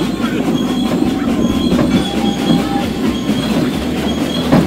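Narrow-gauge train carriage running along the track: a steady rumble and clatter of wheels on rail, with a sharper clack near the end.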